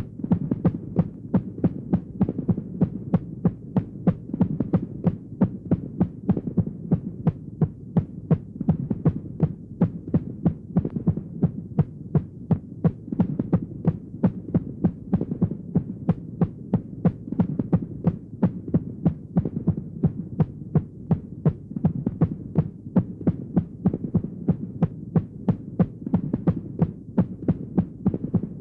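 Horror sound-effect heartbeat: rapid, evenly spaced beats over a steady low hum.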